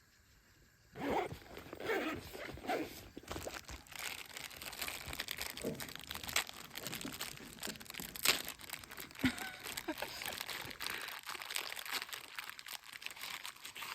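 Close, continuous crinkling and crunching of something dry being handled, beginning about a second in.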